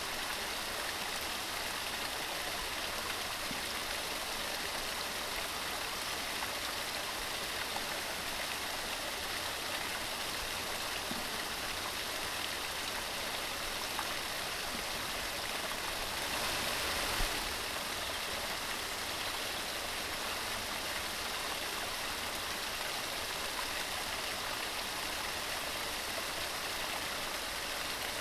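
Mountain stream rushing steadily over stones, with a brief louder swell about two-thirds of the way through.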